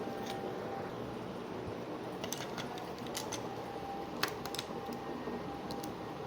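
A few light, sharp clicks of plastic LEGO pieces being handled and fitted, scattered over a low steady hiss, with the loudest click a little past the middle.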